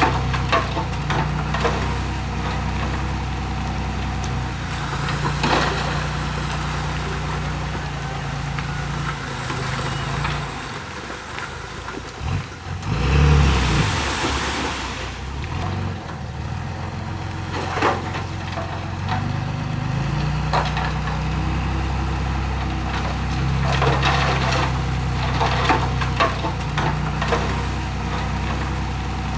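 Small bulldozer's diesel engine running at work, its engine speed stepping up and down, with scattered crunching and knocking as soil is pushed. About halfway through comes a loud burst of hiss with a low thump, like a truck's air brake or dumped soil.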